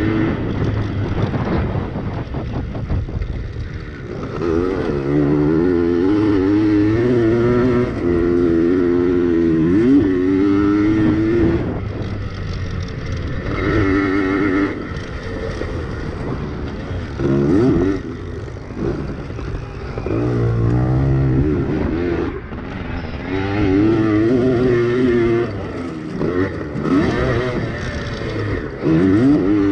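Yamaha PW80 pit bikes' two-stroke single-cylinder engines racing, the engine note repeatedly climbing as the throttle opens and dropping off between bursts.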